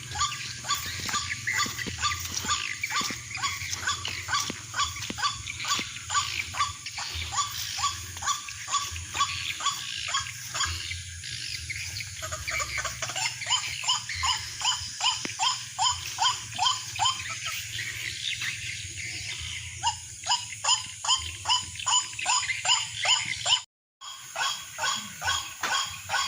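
White-breasted waterhen calls: a long run of harsh, evenly repeated croaks, about two or three a second, cutting out abruptly for a moment near the end.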